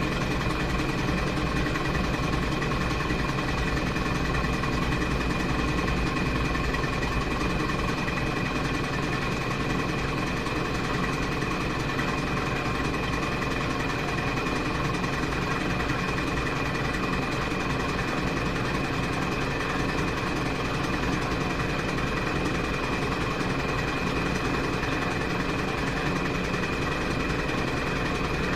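Washing machine running steadily through its cycle: an even motor hum with constant whining tones that does not change.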